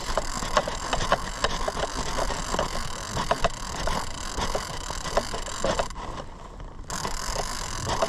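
Small fishing boat drifting at sea: a steady hiss of wind and water with scattered knocks and clicks. The hiss drops away briefly about six seconds in.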